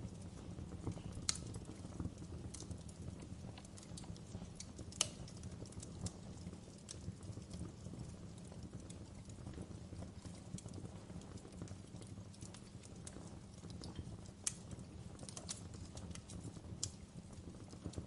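Wood fire burning in a fireplace: a steady low rumble under irregular sharp crackles and pops, the loudest about a second in, at five seconds and near fourteen seconds.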